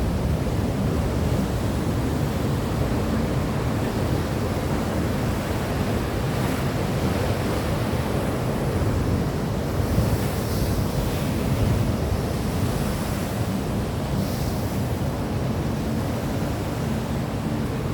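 Steady rushing noise of surf and wind, with a low rumble of wind on the microphone and a few brief swells of hiss.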